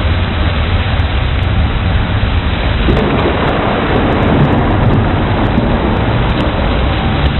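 Steady heavy rain, with a roll of thunder swelling from about three seconds in and fading back into the rain.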